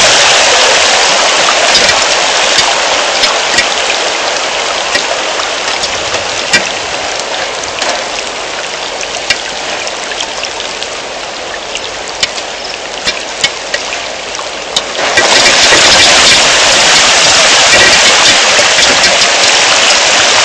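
Heavy rain pouring down, with many single drops ticking sharply close by. The downpour eases gradually, then jumps back to full strength suddenly about fifteen seconds in.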